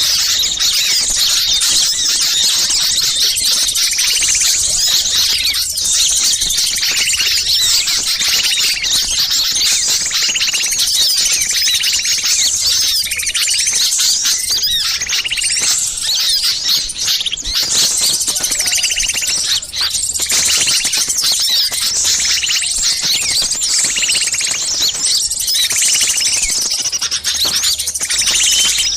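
Dense, continuous chorus of small songbirds chattering and chirping in agitation: a bird-lure (pikat) mix of alarm-type calls made to draw wild small birds in. Many overlapping rapid high chirps, with a lower call repeating every second or two.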